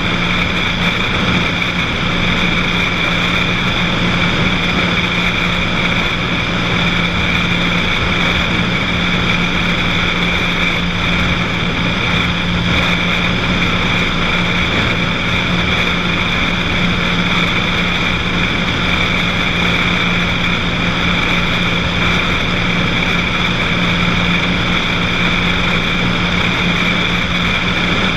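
Cessna 182's piston engine and propeller droning steadily in flight, without change in pitch or loudness.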